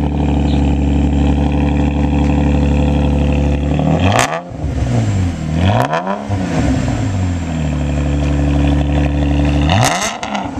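2008 Pontiac G6 GXP's 3.6-litre V6 idling through twin 12-inch Cherry Bomb single-chamber mufflers, blipped three times with quick revs that rise and fall back to idle. The exhaust note is loud, as expected from these glasspack-style mufflers.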